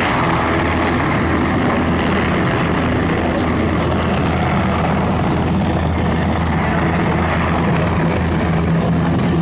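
Helicopter in flight, its rotor and engine noise loud and steady.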